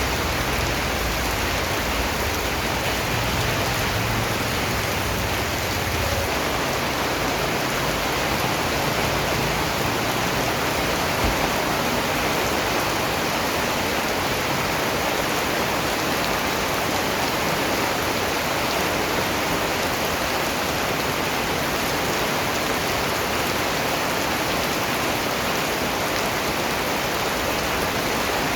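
Steady rain falling, an even, unbroken hiss of many drops, with a low rumble underneath for the first several seconds.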